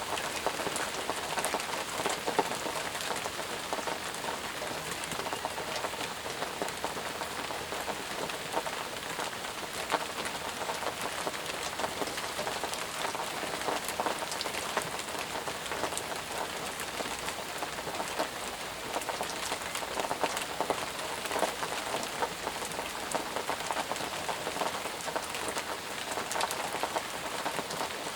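Steady heavy rainfall, a dense even hiss of rain with many individual drops pattering and ticking on surfaces.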